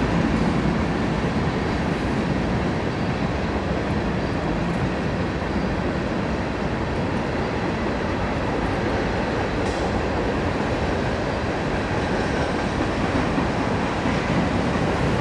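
Freight train of tank cars rolling across a steel plate-girder railway bridge overhead: a steady rumble of wheels on rails.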